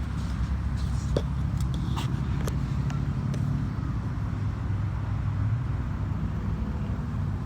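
Steady low outdoor rumble, with a few faint clicks in the first half.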